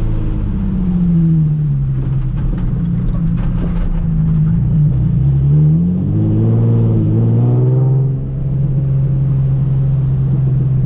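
Nissan 350Z's V6 engine under hard driving: the revs climb and fall back twice, then hold a steady note, with a brief dip in level a little after eight seconds.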